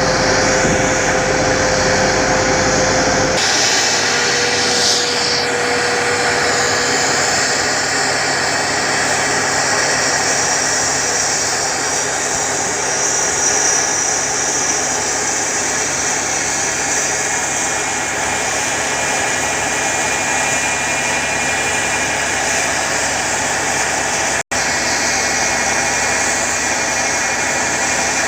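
Boeing 737-900's CFM56 turbofan running on the ramp: a loud, steady whining rush of air with thin high tones. The sound changes abruptly about three seconds in and cuts out for a split second near the end.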